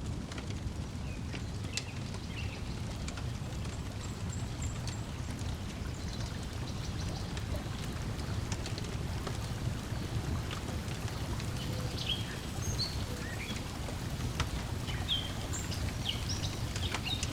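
Wood fire crackling with scattered sharp pops over a steady low wash of lake water lapping at the shore, with small birds chirping now and then.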